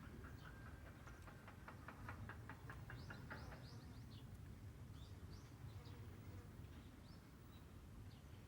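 Small birds chirping outdoors: short scattered chirps, with a quick rattling trill about a second in that lasts a couple of seconds, over a faint steady low rumble.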